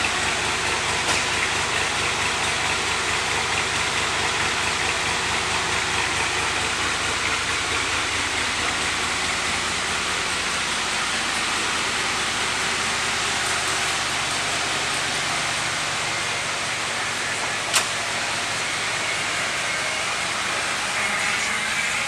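1971 Chevelle's LS3 big-block V8 running steadily, with one sharp click about eighteen seconds in.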